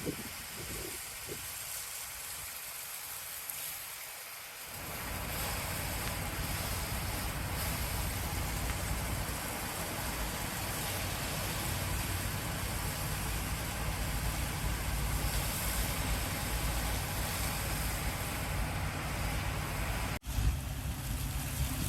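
Water truck's engine running steadily under a broad hiss, getting louder about five seconds in; the sound drops out for an instant near the end.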